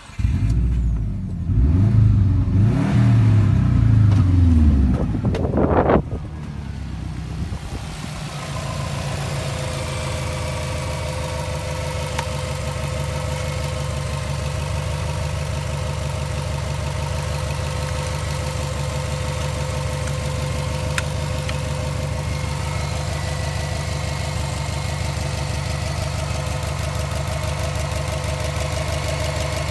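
Subaru EJ205 2.0-litre turbocharged flat-four engine starting up and running at raised, uneven revs, with one sharp rev rising near six seconds. It then drops back and settles into a steady idle.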